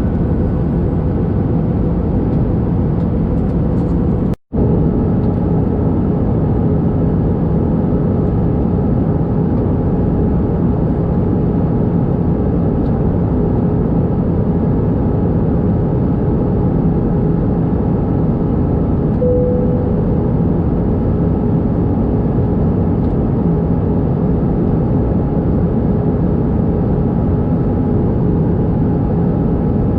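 Airbus A319 cabin noise in flight, heard from a window seat: a steady jet-engine drone and rushing airflow with a low hum. The sound drops out completely for an instant about four seconds in, then resumes unchanged.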